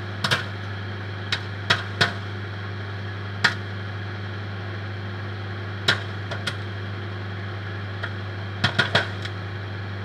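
Popcorn kernels popping one at a time in a paper bag inside a running microwave oven, over the oven's steady hum. The pops come irregularly, a few seconds apart at first, then several in quick succession near the end: the corn is well into popping.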